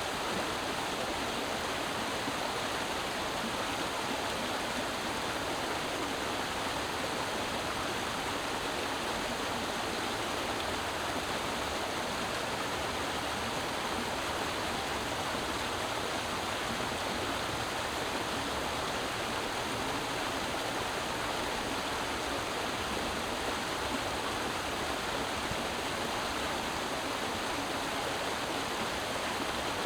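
Creek water flowing and splashing in a steady rush, even and unbroken throughout.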